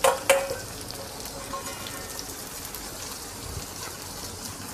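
Onions frying in oil in an aluminium kadai, with fresh bitter gourd slices just added, giving a steady, faint, fine crackling sizzle. Two sharp knocks near the start as the last slices drop in.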